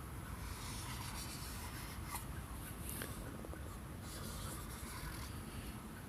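Several short, soft scraping and rubbing sounds over a steady low rumble.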